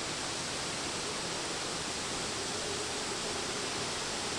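Tropical-storm wind rushing steadily around downtown buildings.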